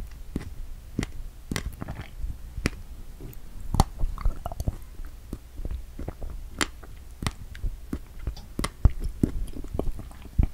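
Close-miked chewing of food, the mouth cupped behind a hand at the microphone: irregular small clicks and smacks, several a second.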